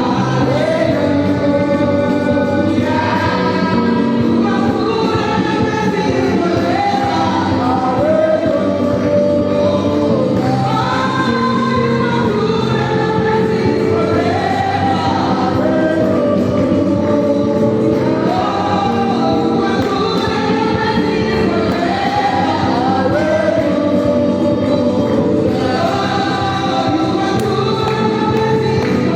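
Gospel music: a choir singing over a steady band accompaniment.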